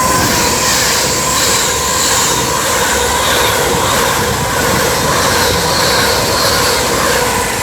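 Avanti West Coast Class 390 Pendolino passing through the station at speed: a loud, steady rush of wheels on rail and air, with a faint steady whine running through it.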